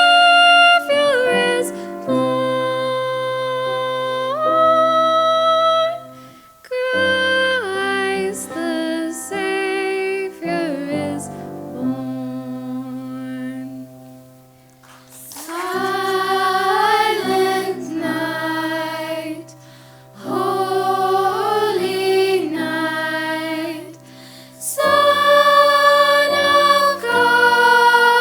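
Choir singing a slow song in long held notes, phrase by phrase, with brief breaks between phrases.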